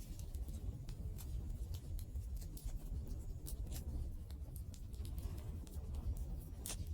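Wood fire crackling: irregular sharp pops and snaps over a low steady rumble of burning, with one louder pop near the end and a faint thin whistle setting in near the end.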